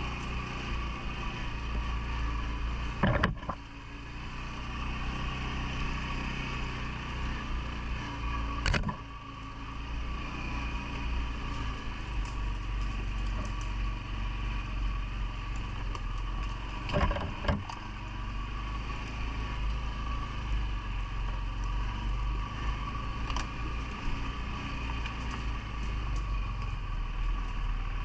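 CFMoto ATV engine running steadily, with a deep low rumble and a steady hum, broken by four sharp knocks or jolts, the last two close together.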